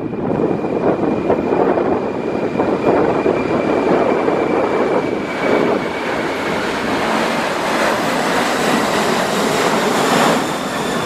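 Boeing 747-400's four turbofan engines at takeoff thrust: a loud, steady roar with faint high whines that slide slowly in pitch, and gusty wind buffeting the microphone.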